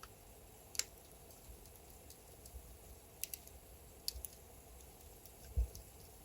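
Wood fire in a fireplace crackling: a handful of sharp pops over a faint low hiss, the loudest about a second in, with a soft low thump near the end.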